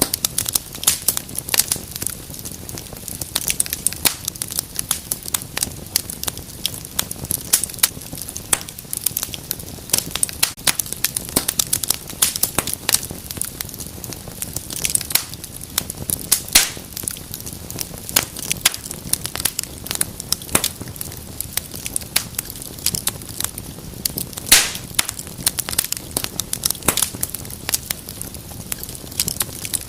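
Wood fire burning in a fireplace, crackling and popping irregularly over a steady low rush of flame, with a few louder pops.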